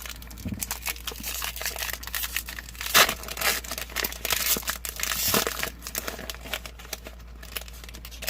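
Foil Pokémon Burning Shadows booster pack wrapper crinkling and being torn open by hand, with a run of sharp crackles and one loudest snap about three seconds in, then quieter rustling.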